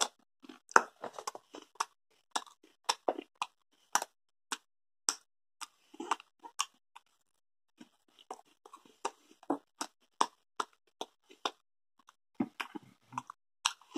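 Estrella Chili BBQ cheese puffs crunching between the teeth as they are chewed, in quick irregular crackles. The crunching pauses briefly about seven seconds in, then goes on.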